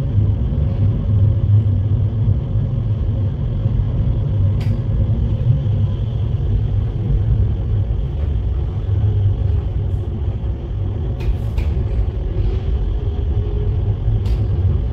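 Light-rail train running underground, heard from inside the passenger car: a steady low rumble with a few sharp clicks.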